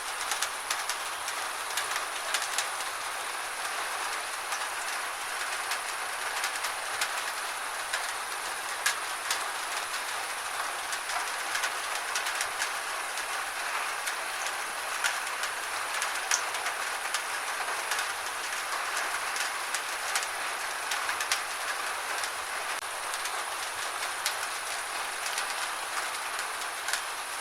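Gentle steady rain: an even hiss, with irregular drops ticking sharply on a hard surface.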